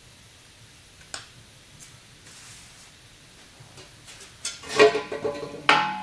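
Metal clanking in a workshop: a single sharp knock, then a loud burst of clattering clanks near the end, with the metal ringing on after the last one.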